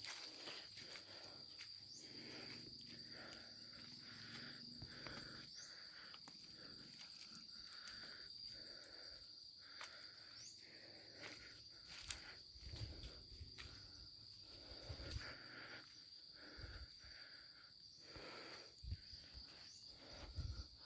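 Faint garden ambience: an insect, likely a cricket, trilling on one steady high note throughout, over scattered rustling, light footsteps and occasional sharp clicks or snaps, with a few soft low thuds in the second half.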